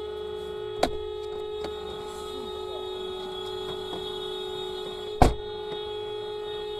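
A steady electrical hum or buzz with two sharp knocks, one about a second in and a louder one about five seconds in.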